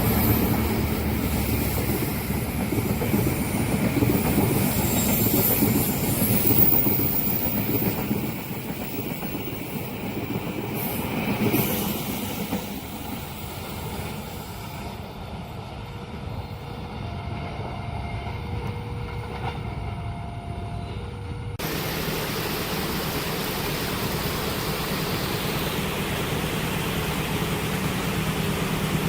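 A passenger train passing over a level crossing, its wheels and cars rushing by loudly, then fading over about a dozen seconds. About two-thirds of the way through the sound cuts abruptly to a steady engine hum.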